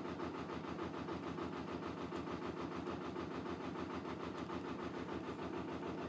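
Narrowboat's diesel engine running steadily under way, a regular beat of about eight pulses a second.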